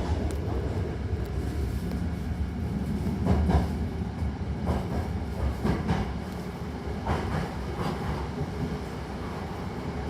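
Hankyu Takarazuka Line train running, heard from inside the car: a steady low rumble with wheels clacking over rail joints now and then, the rumble easing a little in the second half.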